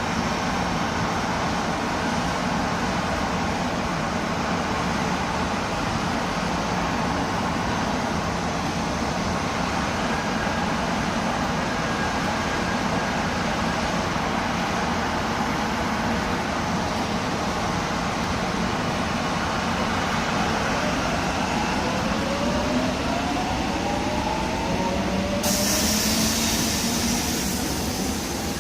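Electric commuter train in the station, with steady rail and running noise. About 21 seconds in, its traction motors start a whine that changes pitch, and about 25 seconds in there is a sudden burst of compressed-air hiss lasting a couple of seconds.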